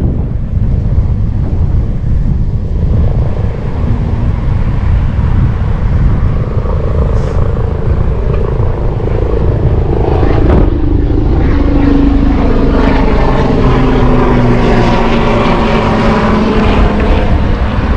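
Heavy wind buffeting the microphone of a moving bicycle, with a passing motor vehicle's engine drone rising out of it about halfway through, its pitch falling slowly as it goes by.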